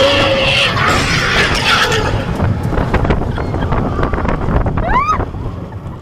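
Slinky Dog Dash roller coaster in motion, heard from the front row: the train's rumble under a heavy rush of wind over the microphone. About five seconds in, a rider gives a short rising whoop.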